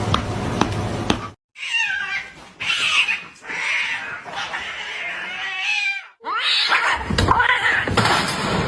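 Cats yowling at each other in a fight standoff: long, wavering, rising and falling howls, cut off abruptly twice as one clip gives way to the next.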